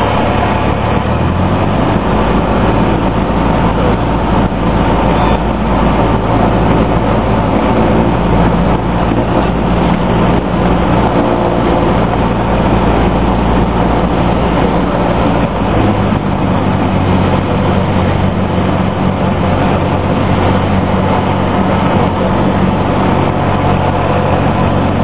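Single-engine Cessna's piston engine and propeller droning loud and steady, heard from inside the cabin. The engine note changes about a second and a half in and again about sixteen seconds in.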